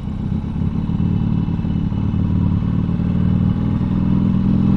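Harley-Davidson Sportster Seventy-Two's air-cooled V-twin running steadily at low road speed, getting slightly louder towards the end.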